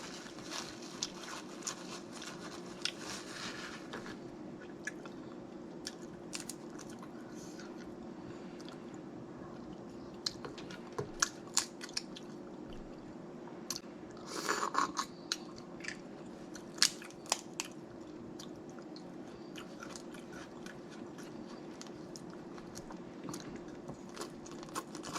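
Close-up eating of snow crab legs: shells cracking and snapping with many sharp clicks, and wet chewing and sucking of the crab meat, with a longer noisier burst about halfway through.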